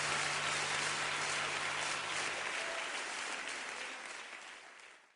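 Congregation applauding. The applause slowly dies away and cuts off abruptly near the end, while a low held note fades out under it about halfway through.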